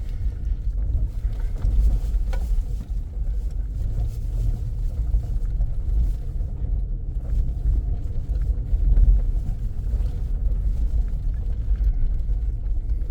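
Car driving over a rough, rutted dirt road: a steady low rumble of tyres and suspension, with a few faint knocks.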